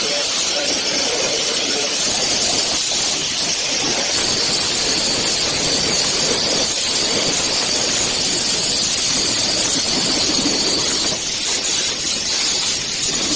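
Angle grinder grinding the metal frame of a handcart: a steady, hissing grind with a faint high whine that fades about two seconds before the end.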